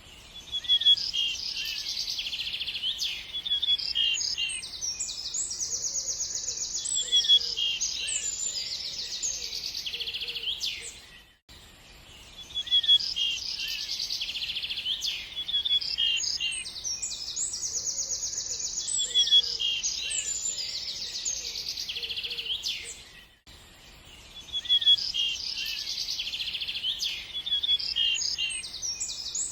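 Several songbirds singing and chirping, with quick high trills and short whistled notes. The same birdsong recording of about 12 seconds plays on a loop, dipping briefly at each restart, twice.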